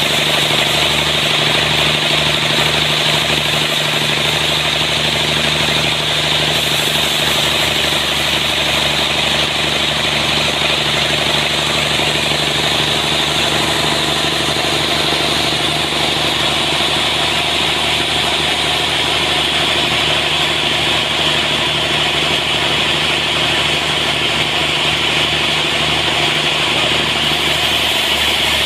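Sawmill running steadily: an engine drone with a continuous high hiss over it.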